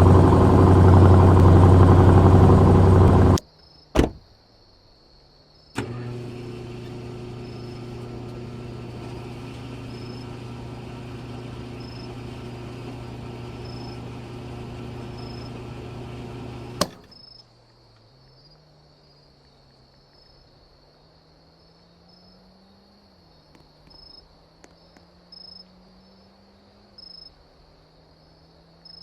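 Car engine running loud and close, cutting off abruptly about three seconds in. Then an engine idles steadily at a moderate level from about six seconds to seventeen seconds and stops with a click. After that, crickets chirp with a faint low hum.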